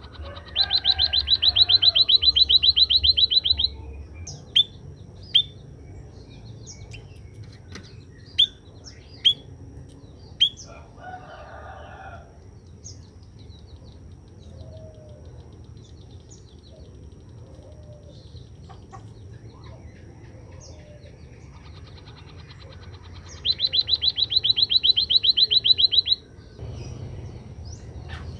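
White-headed munia (emprit kaji) singing after being sunned: two loud, rapid trills about three seconds each, one near the start and one near the end, with scattered short, sharp chirps in between.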